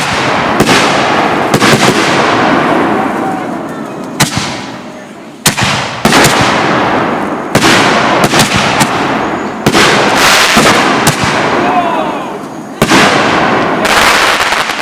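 Consumer firework mortars going off in a rapid string from a rack: about a dozen sharp bangs, each followed by a long hissing, crackling tail as the shells burst.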